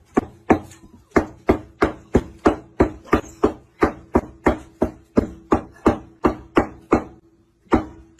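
Cleaver chopping meat on a wooden cutting board: steady, even chops about three a second, stopping about seven seconds in, with one last chop a moment later.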